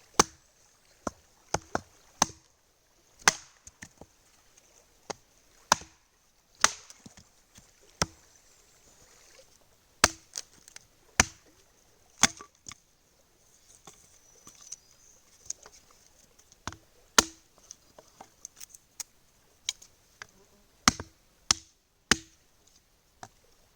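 Firewood being split: a series of sharp chopping strikes on wood at uneven intervals, some ringing briefly.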